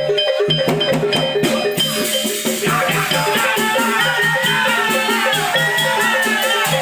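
Javanese barongan accompaniment music: a gamelan-style ensemble of drums and tuned metal percussion playing a steady repeating pattern, joined about two and a half seconds in by a high, wavering melody.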